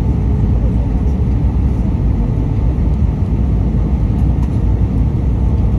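Steady low rumble of the Airbus A319's engines and cabin noise, heard from inside the passenger cabin.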